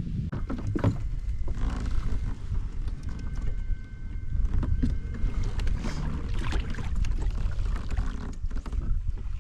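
Low wind rumble on the microphone of a fishing kayak, with scattered knocks and clicks from the kayak and gear, and a faint thin tone held for a few seconds in the middle.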